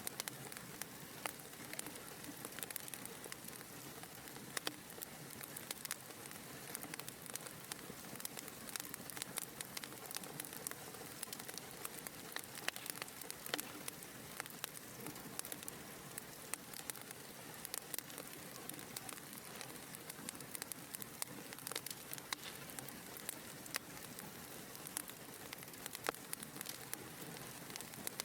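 Wood fire crackling in a fireplace: a steady soft hiss with frequent small, irregular pops and snaps.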